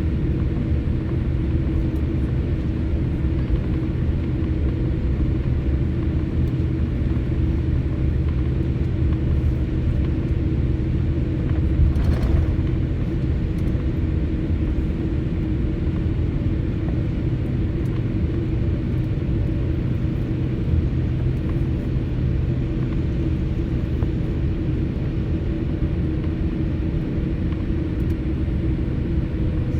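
Steady hum and rumble heard inside a jet airliner's cabin on the ground before take-off, with several steady engine and air-system tones. A brief louder bump or rattle comes about twelve seconds in.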